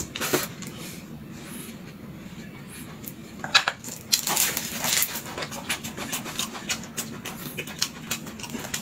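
Close-up mouth noises of a man eating a flatbread: wet chewing and lip-smacking, heard as a run of short clicks and smacks that gets busy about three and a half seconds in.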